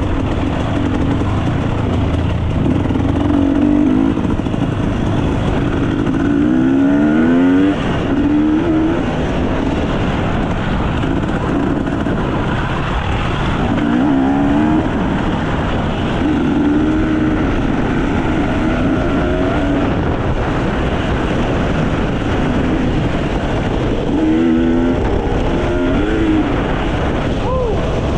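Enduro dirt bike engine being ridden off-road, its revs rising and falling again and again as the throttle is opened and closed, with several quick rising surges along the way.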